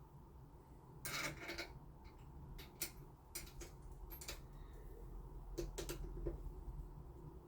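Faint, scattered small clicks and taps of metal lock hardware and hand tools being handled, with a short scraping rustle about a second in.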